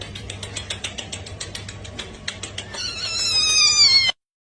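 A rapid run of short clicks, about seven a second, then a cat's loud, drawn-out meow, falling slightly in pitch, which cuts off abruptly.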